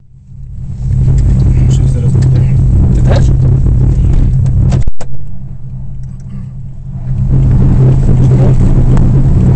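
Rally car engine running steadily at a constant note while the car stands still, heard from inside the cabin. It cuts out sharply for a moment about five seconds in, is quieter for about two seconds, then comes back to full loudness.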